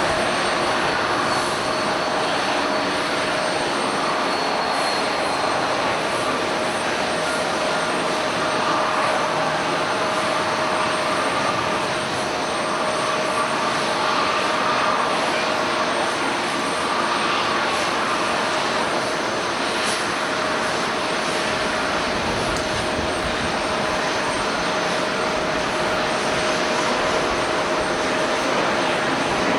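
Jet airliner engines running steadily, a constant whine over a wide rushing noise.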